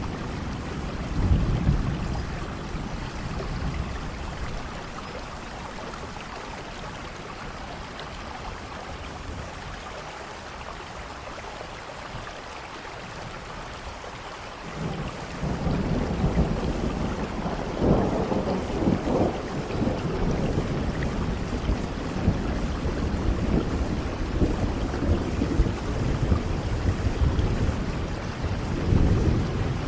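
Steady rain with rolling thunder: a rumble about a second in, a quieter spell of rain, then a long, heavier rumble of thunder building about halfway through and swelling again near the end.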